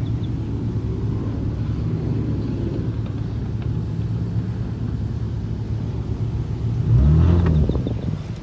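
Car engine and road rumble, steady and low, with an engine revving up and back down briefly about seven seconds in, the loudest moment.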